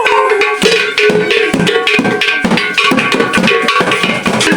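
Local Nigerian traditional music played live, with fast, dense hand-drum and wood-block strikes over a steady held tone.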